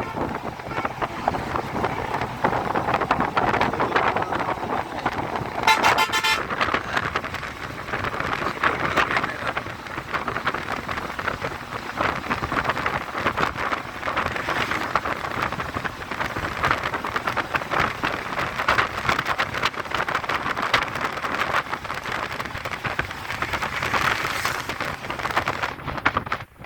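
Road traffic noise with a vehicle horn sounding briefly about six seconds in.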